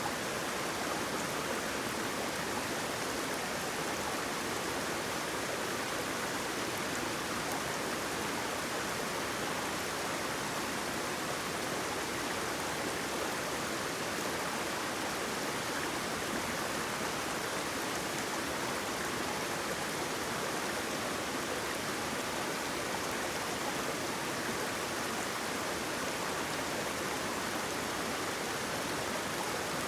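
Waterfall and flowing water running steadily, an even hiss of water with no separate splashes or changes.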